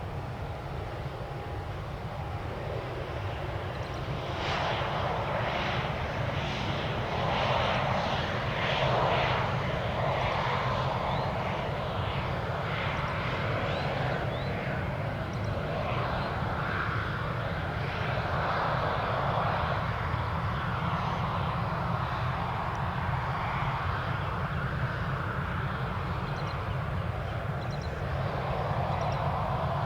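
Jet airliner engines, a steady rumble that grows louder about four seconds in and stays loud as the plane passes.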